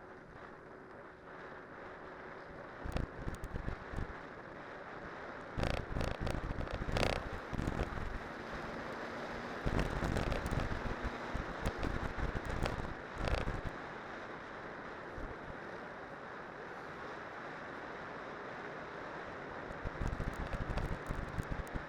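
Wind rushing over the microphone and the rolling noise of a cyclocross bike's spiked tyres on a winter road during a downhill run, with clattering knocks from bumps a few times.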